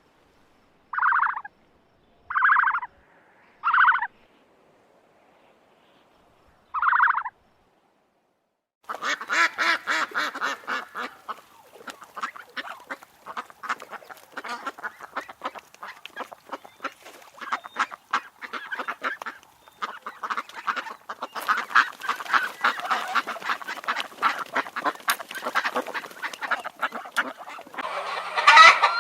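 Farmyard waterfowl calling: four single loud honking calls a second or more apart, then after a short pause a whole flock calling at once in a dense, continuous chatter.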